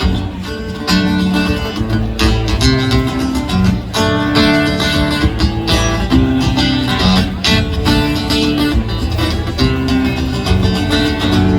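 Live acoustic guitars playing an instrumental passage: quick plucked notes over a steady low end, between sung lines of a song.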